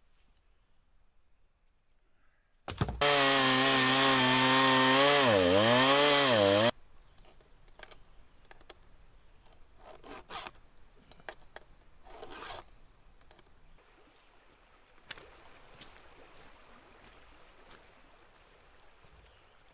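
Chainsaw running at full throttle for about four seconds, its pitch sagging under load in the cut and recovering, then cutting off abruptly. Faint rustles and knocks follow.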